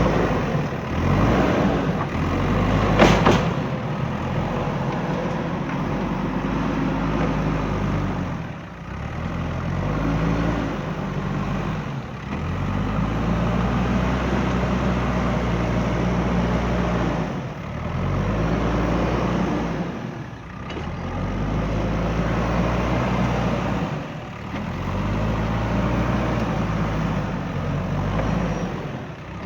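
JCB 3DX backhoe loader's diesel engine working, its pitch and loudness rising and dipping every few seconds as the load comes and goes. There is a short sharp crack about three seconds in.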